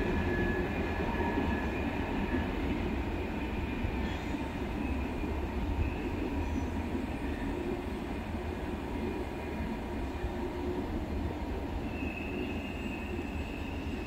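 Loaded oil train's tank cars rolling away on the rails, a low wheel rumble that slowly fades as the train recedes. Thin, faint wheel squeal comes and goes, once near the start and again near the end.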